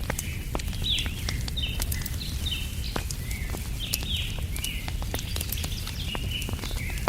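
Wood fire crackling with sharp pops over a low steady rumble, while a bird repeats short, falling chirps about twice a second.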